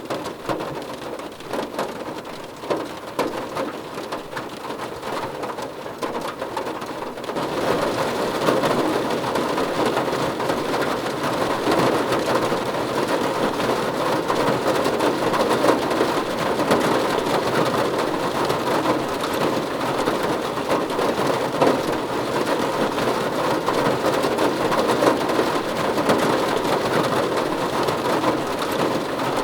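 Rain falling on a car roof: at first a lighter patter of separate drops, then from about seven seconds in a heavier, denser, steadier downpour.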